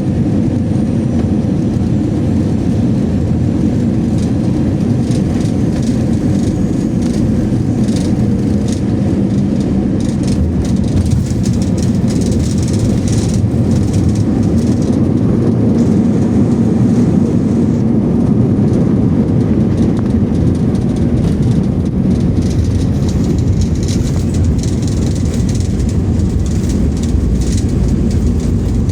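Cabin noise inside an Airbus A321 on the ground after landing: a steady low rumble of the CFM56 engines and the rolling airframe, with scattered light rattles through the second half.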